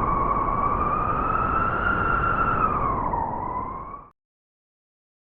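A wolf howling: one long howl that rises slightly, then drops near the end, over a low wind rumble. It cuts off suddenly after about four seconds.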